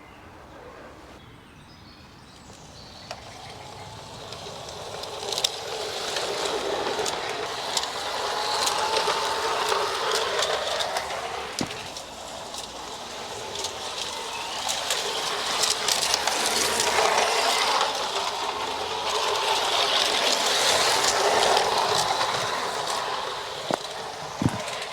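G-scale garden railway train running round the track: a rolling rush of wheels on rail with occasional clicks. It grows louder over the first several seconds and swells again later as the train comes near.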